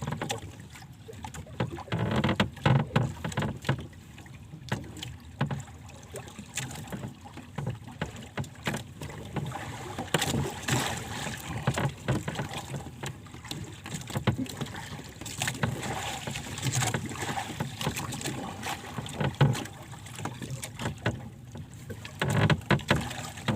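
Gusty wind buffeting the microphone, with water slapping and splashing against a small boat in an irregular, uneven rhythm.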